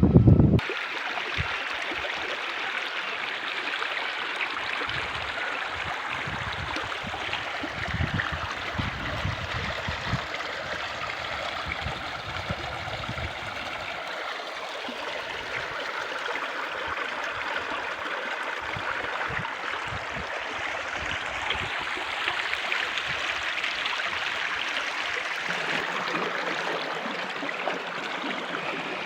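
A stream of water running steadily, with gusts of wind rumbling on the microphone through roughly the first half.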